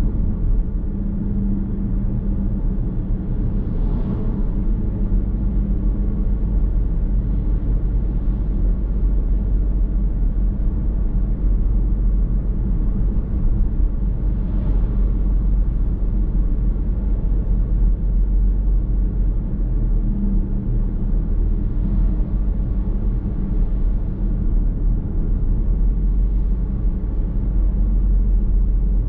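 Steady low rumble of a car driving on the road, heard from inside the cabin: tyre and road noise with the engine underneath, with a few faint brief swells.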